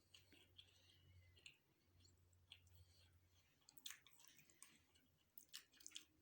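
Faint close-miked chewing with soft wet mouth clicks and smacks, a small cluster of sharper clicks about four seconds in and again near the end.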